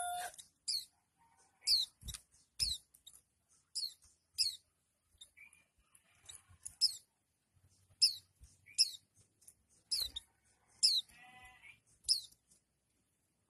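White-eye (pleci) singing in the 'nembak' style: sharp high chirps, each sweeping downward, given singly or in quick pairs every second or so. A few dull knocks, and a brief lower-pitched animal call near the end.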